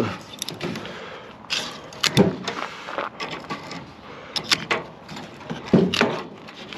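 Knocks, clanks and rattles from a microwave oven being taken apart by hand as its transformer is worked loose: four sharp knocks with lighter clicks and scrapes between them.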